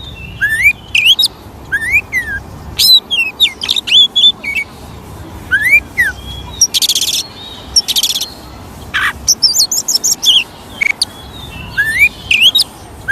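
Oriental magpie-robin (kacer) singing a varied song of loud rising whistles and quick chattering notes, with two harsh, buzzing bursts about seven and eight seconds in.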